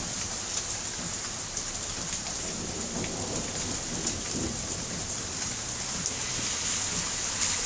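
Heavy rain falling steadily during a thunderstorm: an even hiss with a few sharper drop ticks.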